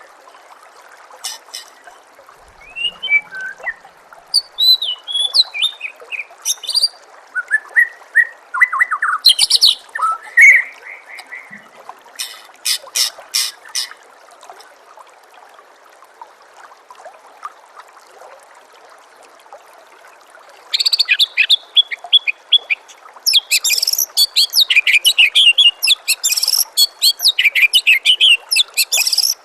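White-rumped shama (murai batu) singing varied whistled and chattering phrases with pauses between them, then a long fast chattering run near the end. Steady trickling water runs underneath.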